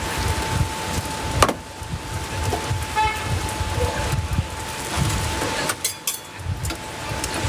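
Roadside traffic rumbling, with a short vehicle-horn toot about three seconds in. A thin steady whine runs underneath and stops near the end.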